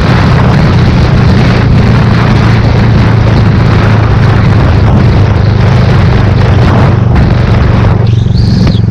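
Royal Enfield Thunderbird 350's single-cylinder engine running steadily at highway cruising speed, under continuous wind rush on the microphone.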